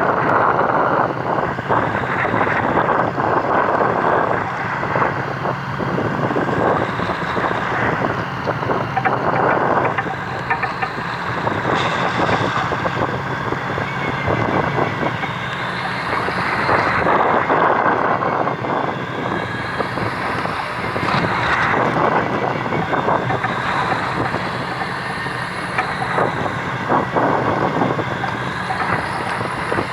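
A fishing boat at sea: its engine runs steadily under wind on the microphone and the wash of water, which swell and ease every few seconds.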